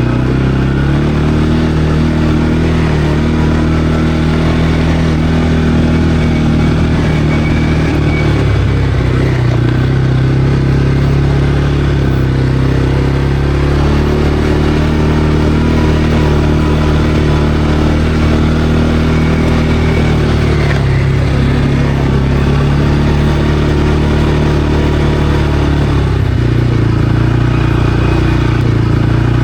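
CFMOTO Cforce 520L ATV's single-cylinder four-stroke engine running under way, its pitch shifting a few times as the speed changes.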